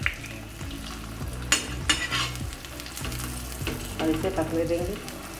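Cheese paratha sizzling in ghee on an iron tawa. A steel spoon clicks and scrapes against the tawa a few times about one and a half to two seconds in as it presses the bread.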